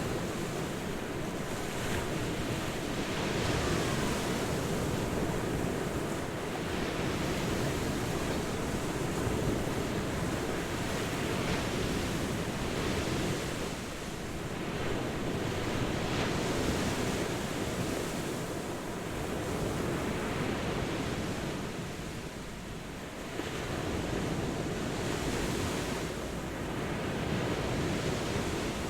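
Ocean surf: a continuous wash of waves that swells and eases, softening briefly twice.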